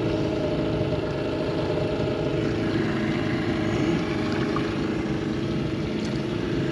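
Two-stroke 45 hp Mariner outboard motor running steadily at low speed, with a slight shift in pitch a few seconds in.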